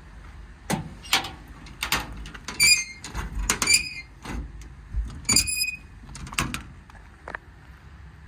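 Metal service-body compartment door and its hardware being handled: a string of latch clicks and clunks, with three short squeaks about two and a half, three and a half and five seconds in.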